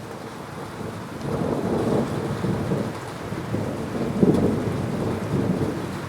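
Rolling thunder rumbling over steady heavy rain: the rumble swells about a second in, peaks a little past the middle and eases off near the end.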